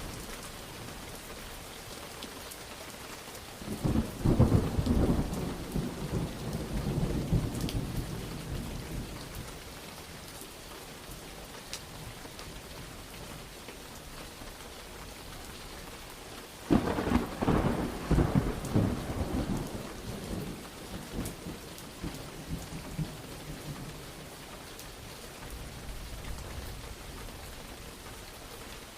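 Steady rain with two claps of thunder, about four seconds in and again near the middle, each starting with a sharp crack and rumbling away over several seconds.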